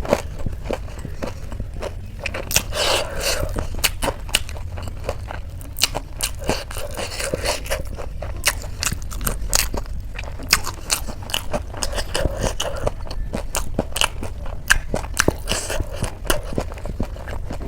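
Close-up eating sounds: crunchy bites and chewing of crisp Indian chaat snacks, a steady run of quick crunches and clicks.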